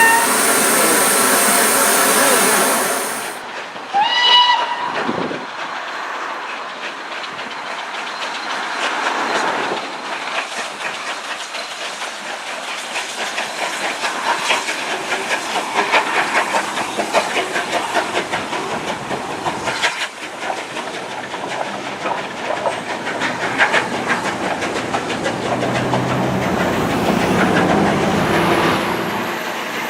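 Steam-hauled train running, its wheels clicking over rail joints as the carriage rattles, with a short whistle about four seconds in. A loud rushing noise fills the first three seconds and stops abruptly.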